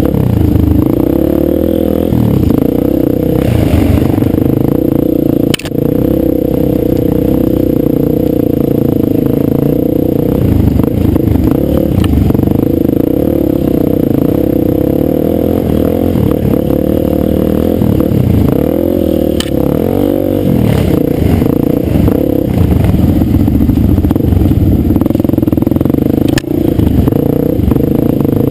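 Dirt bike engine running under throttle, its pitch dipping and rising a few times as the throttle is worked.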